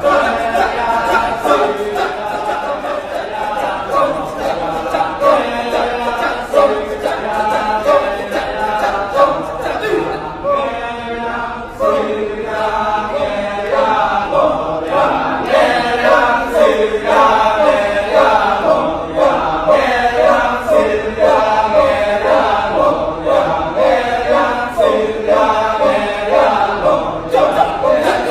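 Kecak chorus: many voices chanting a fast, rhythmic "cak-cak-cak" a cappella, without instruments.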